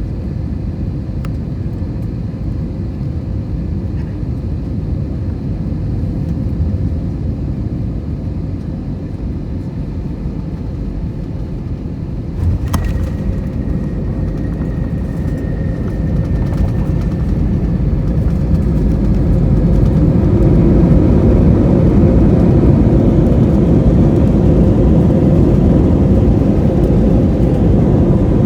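Airbus A321 cabin noise: a steady low rumble, a sharp thump about twelve seconds in, which fits the main wheels touching down, then the engine noise grows louder over a few seconds and stays up.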